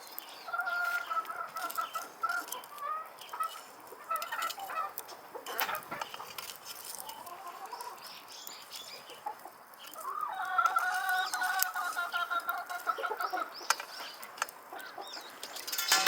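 Chickens clucking and calling, with one long drawn-out call about ten seconds in.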